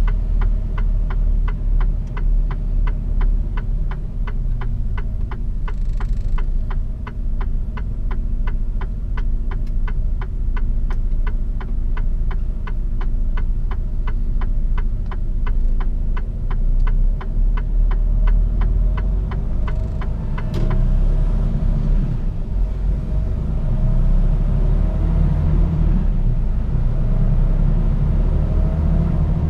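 Mercedes-Benz Actros truck heard from inside the cab: the engine rumbles at low speed while a turn indicator ticks steadily. About two-thirds of the way through, the ticking ends with a sharp click and the engine pulls away, its note rising.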